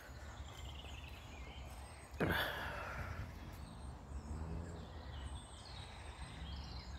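Outdoor ambience: a steady low wind rumble on the microphone with faint bird calls, and one short, sudden rush of noise a little over two seconds in.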